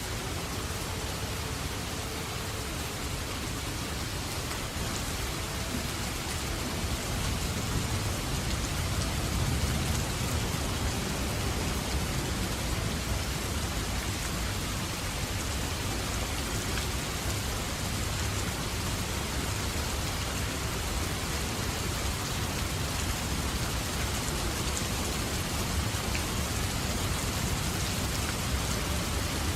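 Steady rain falling, an even hiss with a low rumble beneath it that grows a little louder about seven seconds in.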